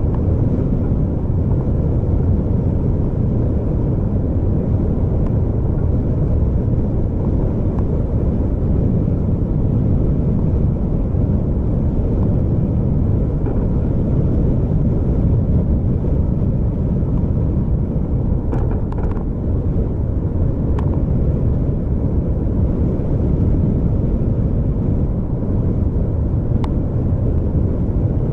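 Steady low rumble of a vehicle travelling on the road, with a few faint clicks in the second half.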